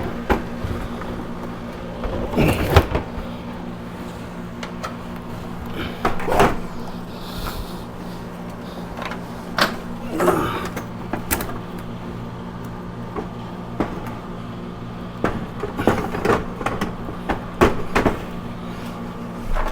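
Intermittent knocks and clatter of hands and tools on hardware, every second or two, over a steady low hum.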